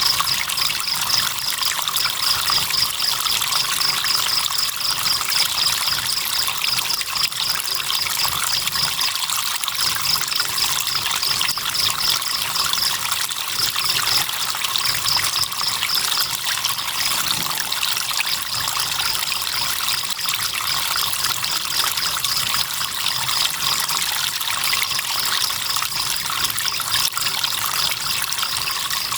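River water trickling steadily, with crickets chirping in a fast, high pulsing trill that stops briefly now and then.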